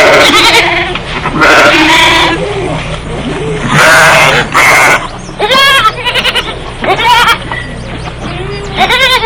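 Farm animals bleating, about eight loud, quavering calls in quick succession over a low steady hum.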